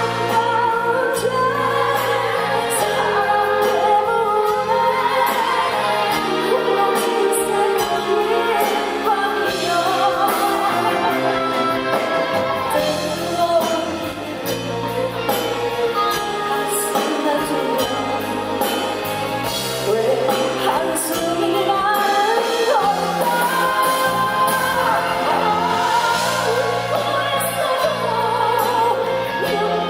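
A woman singing a slow song with live band accompaniment, her voice holding long notes with vibrato over sustained chords and a steady bass.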